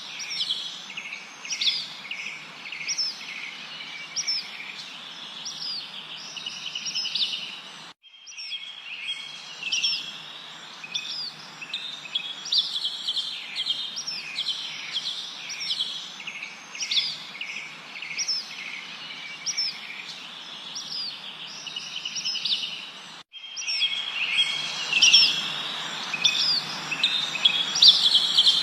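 Birds chirping and trilling, with short high chirps repeating about once a second over a steady hiss. The sound cuts out abruptly for an instant twice, about 8 and 23 seconds in, as the recording is spliced.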